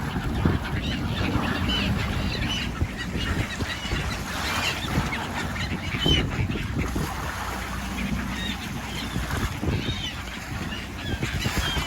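A flock of seabirds calling, many short high calls overlapping one after another, over a steady low rumble of wind and water.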